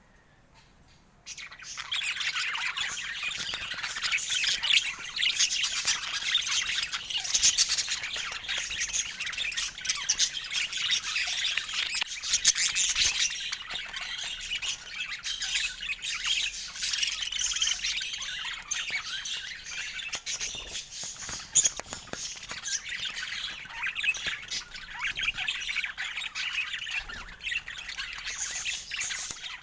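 Budgerigars chattering with a dense, continuous stream of chirps, squawks and warbling, starting about a second in.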